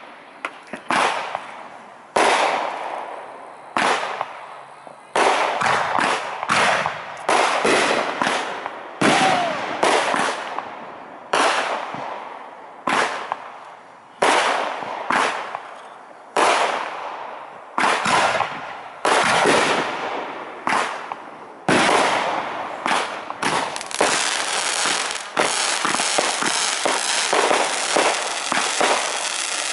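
Aerial fireworks shells bursting one after another, each a sharp bang with a crackling, fading tail, about one a second; in the last third the bursts come faster and run together.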